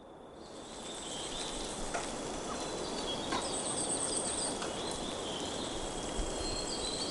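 Outdoor ambience fading in over about a second: a steady hiss with small birds chirping repeatedly in short, high notes.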